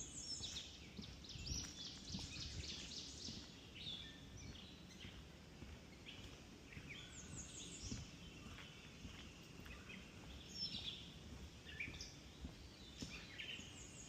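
Several songbirds singing in a spring swamp forest: a chorus of short chirps and quick trills, busiest in the first few seconds and again near the end, over a low background rumble.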